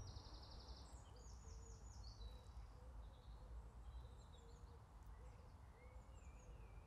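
Quiet outdoor ambience: small songbirds chirping and trilling faintly, most in the first two seconds, over a low, steady rumble.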